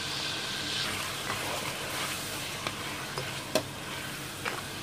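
Chicken wings, onion and garlic sizzling in a pan with liquid seasoning while a spatula stirs them, giving a few sharp knocks against the pan; the loudest knock comes about three and a half seconds in.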